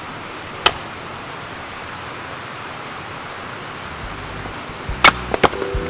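A single sharp crack of an axe striking and splitting a piece of firewood, about a second in. Near the end, background music comes in with two more sharp knocks.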